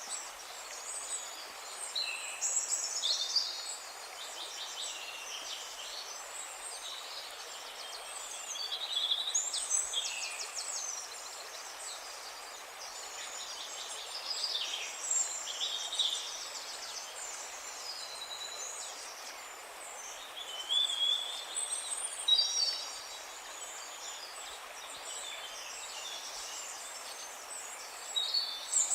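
Several songbirds singing and calling, with overlapping chirps, trills and whistled notes, over a steady background hiss.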